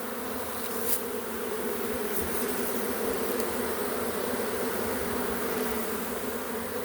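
A swarm of honey bees buzzing in the air: a dense, steady, wavering hum of many bees at once.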